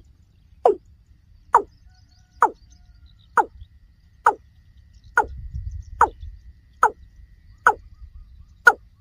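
Watercock (kora) calling: a steady series of short hollow notes, about one a second, each dropping in pitch.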